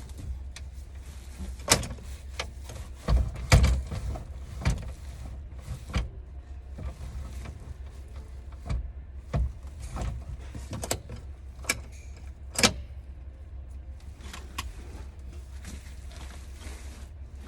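Irregular sharp clicks and knocks, a dozen or so, the loudest a few seconds in and again past the middle, over a steady low hum.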